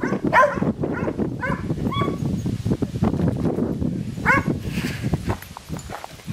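Several dogs barking and whining, with high yelps now and then, excited at treats being handed out; the noise dies down near the end.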